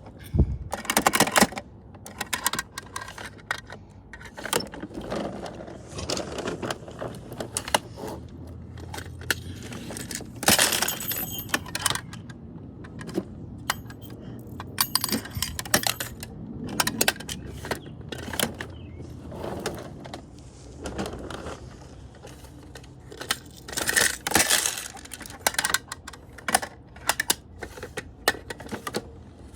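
Irregular clattering and knocking of small hard objects, with scattered sharp clicks and a few louder clusters about a second in, around ten seconds in, and near twenty-four seconds in.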